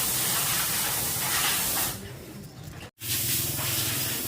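Loud, steady hissing noise that weakens about two seconds in and breaks off abruptly. It starts again shortly after over a low steady hum.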